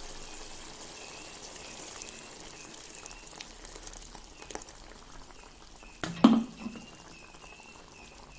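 Pot of chicken in water bubbling and sizzling on the stove as ground spice paste goes in, with a few light clinks and one loud knock about six seconds in.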